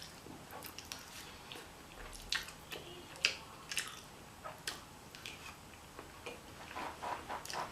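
Close-miked chewing of a forkful of burrito bowl: wet mouth smacks and small clicks at irregular intervals, a little busier near the end.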